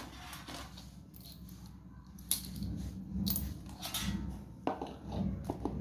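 Ceiling fan packaging being handled: irregular rustles, scrapes and clicks of cardboard and plastic, about half a dozen sharp strokes.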